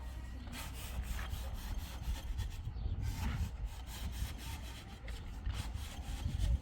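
Irregular rubbing and scraping strokes over a low rumble.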